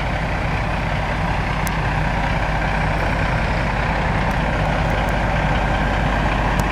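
Truck engine idling steadily, a constant low rumble.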